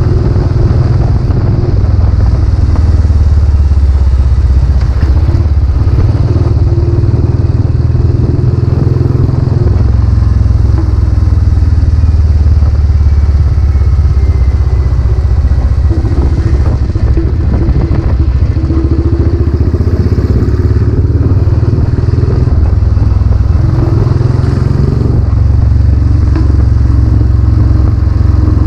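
Royal Enfield Classic 500's single-cylinder engine running through a newly fitted silencer while riding, its note rising and falling several times with throttle and gear changes.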